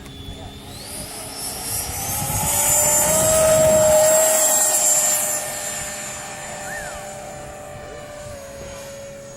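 Electric radio-controlled model airplane flying past, its motor whining. It grows louder to a peak about four seconds in, then fades with a slight drop in pitch.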